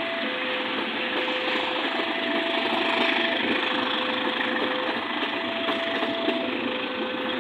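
A train running on the rails with a steady noise and clatter, while an electronic warning signal alternates between two tones, each held about a second and a half.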